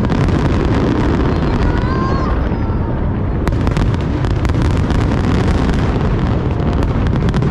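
Aerial fireworks display: a continuous low booming from bursting shells, with many sharp crackles over it.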